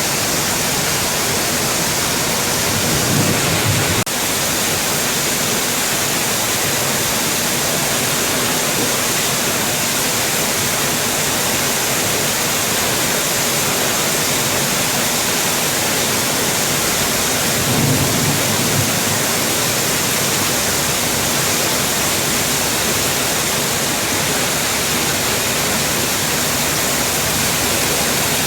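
Heavy rain falling as a steady, even hiss. Twice there is a brief low rumble.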